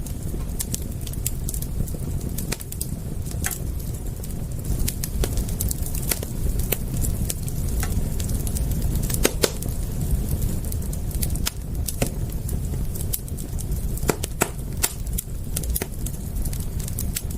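Wood fire crackling, with sharp irregular pops and snaps over a steady low rumble of the flames.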